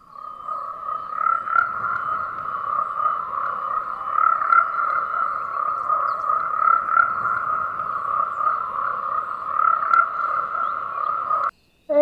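A dense, steady chorus of calling animals with a fast trilling texture, which cuts off suddenly near the end.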